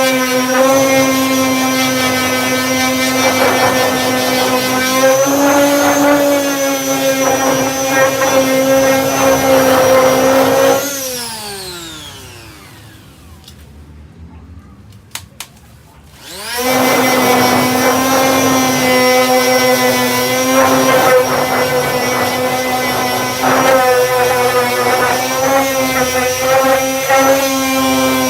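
Power sander with a 240-grit disc, sanding body filler, running with a steady whine. About eleven seconds in it is switched off and spins down in a falling pitch. About five seconds later it starts up again and runs on.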